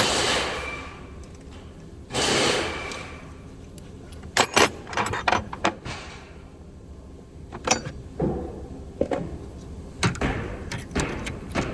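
Metal tool-chest drawers sliding open and shut, with sharp clicks and clanks of hand tools being put away.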